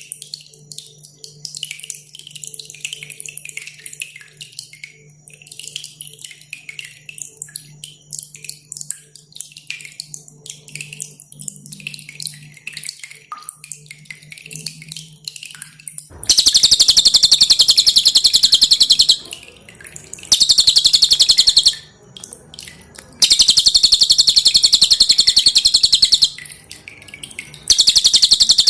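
Dripping water with scattered short, high chirps for the first half, then a cililin bird singing its loud, very fast, dense trill in four bursts of one to three seconds each.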